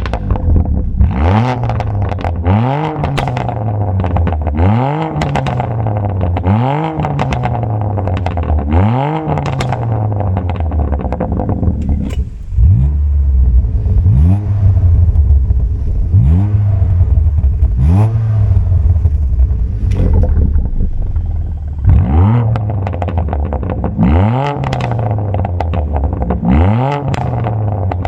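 BMW M4's S55 twin-turbo inline-six through a 3.5-inch valved straight-pipe exhaust, revved again and again. Each rev rises sharply in pitch and falls back, about one every two seconds, with sharp cracks on the overrun.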